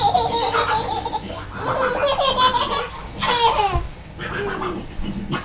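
Baby laughing and giggling in bursts.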